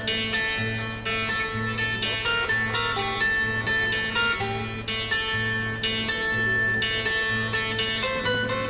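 Instrumental music between sung verses: a plucked guitar melody over a steady bass note pulsing a little more than once a second.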